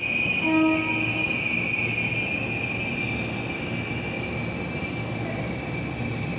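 Gajayana passenger train approaching along the station tracks: a steady low rumble with high-pitched squealing tones held over it, and a short pitched tone about half a second in.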